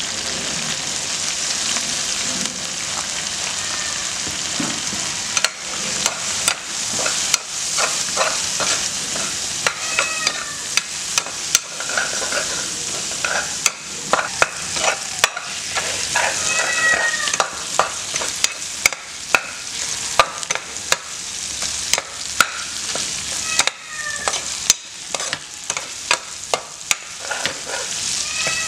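Snails in their shells frying with chillies and onion in a hot pan: a steady sizzle. From about five seconds in it is broken by sharp clicks and scrapes of a metal ladle stirring against the pan.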